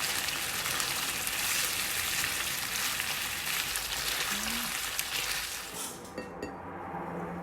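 Food sizzling in a frying pan, an even hiss that cuts off about six seconds in.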